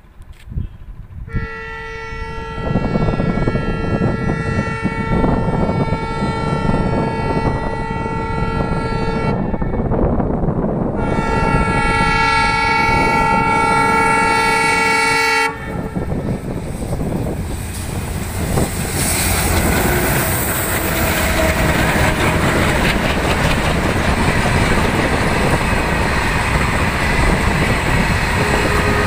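Twin ALCO diesel locomotives hauling a goods train sound their multi-tone horn in two long blasts, about eight seconds and then about four seconds, as they approach at speed. About sixteen seconds in, the locomotives pass close and the rake of box wagons rushes by with a loud, steady clatter of wheels on rail.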